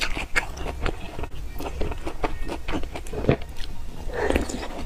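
Close-miked mouth sounds of chewing fried dough sticks (youtiao) soaked in soy milk, as a run of small wet clicks and smacks, with a fresh bite into a soaked piece about four seconds in.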